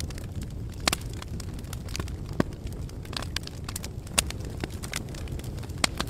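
Campfire burning with irregular sharp crackles and pops over a steady low rumble of flames.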